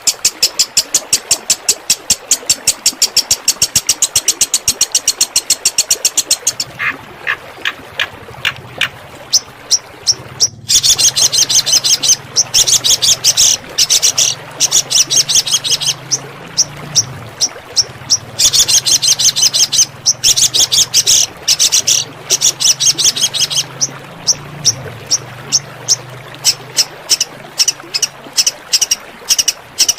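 Recorded songbird 'tembakan' song: long runs of rapid, sharp high notes, about six a second, broken by a few short pauses and stretches of sparser notes.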